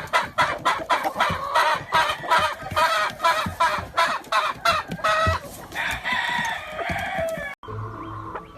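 Many gamefowl roosters crowing and clucking over one another, with quick sharp clucks in rapid succession. Near the end it cuts off abruptly to a quieter, steadier background.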